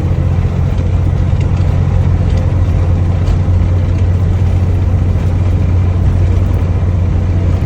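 Truck engine running with a steady low drone under road noise, as heard while driving.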